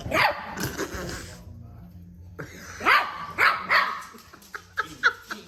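Dogs barking in play: a burst of barks at the start, three loud barks about three seconds in, then a few short, sharp yips near the end.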